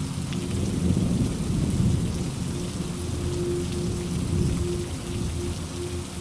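Steady rain hissing, with scattered drops ticking. A low roll of thunder swells about a second in and rumbles off over the next few seconds.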